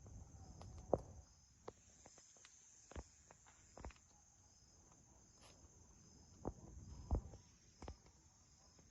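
Bonfire of algaroba (mesquite) wood crackling: scattered sharp pops and snaps, about one every second or so. Under them runs faint, steady cricket chirring.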